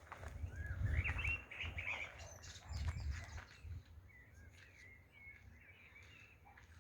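Small birds chirping in short high twittering phrases, busiest in the first two seconds and again from about four seconds in, over an uneven low rumble.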